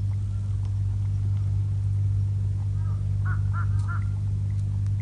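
A truck engine idling with a steady low hum. About three seconds in, a bird gives a quick run of short calls.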